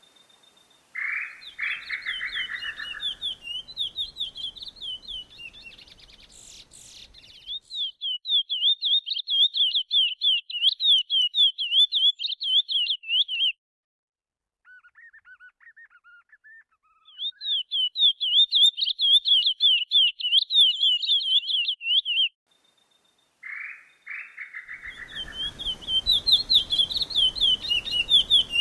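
A songbird singing long phrases of rapid, high, up-and-down warbled notes, each lasting several seconds with short pauses between. A phrase opens with a lower, harsh buzzy note.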